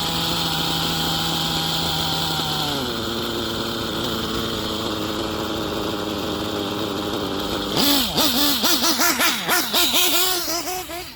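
Nitro RC buggy engine (OFNA Hyper 3-port turbo) idling steadily. About three seconds in, the idle drops a little lower as the idle screw is turned down and the bottom end richened. Near the end it revs up and down several times in quick succession.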